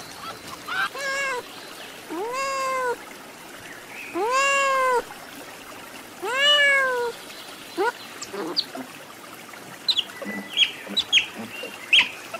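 A domestic cat meowing four times, each meow rising and then falling in pitch. It is followed by a few weaker calls and then by short, high chirps and squeaks near the end.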